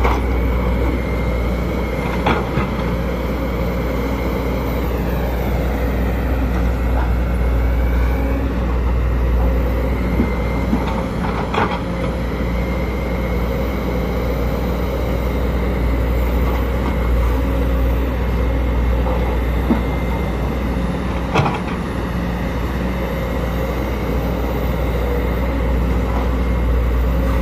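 Sumitomo SH210LC excavator's diesel engine running steadily under load, with a high whine that dips in pitch and comes back a few seconds in, and a few sharp knocks about 2, 11 and 21 seconds in.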